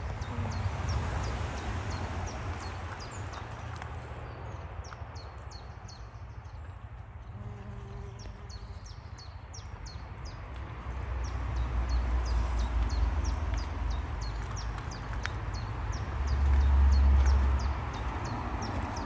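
Wind rumbling on the microphone, swelling twice in the second half, over a small bird's short high chirps repeated steadily throughout.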